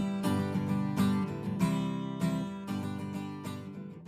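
Background music of a strummed acoustic guitar, fading gradually toward the end.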